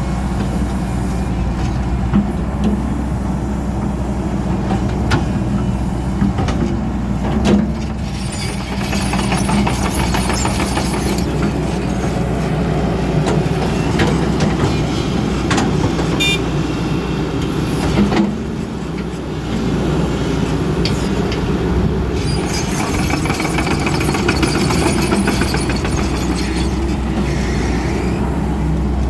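XCMG 140 excavator's Cummins diesel engine running steadily, with a few sharp knocks and clanks and a stretch of hiss near the end.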